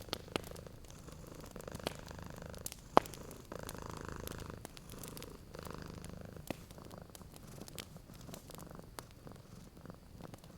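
A domestic cat purring steadily in long, swelling breaths, with a wood fire crackling and popping alongside; the sharpest pop comes about three seconds in.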